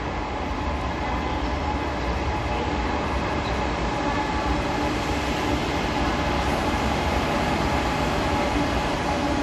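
SRT high-speed train (KTX-Sancheon type) running past along the platform track, a steady rumble with a faint hum that grows slowly louder as it comes closer.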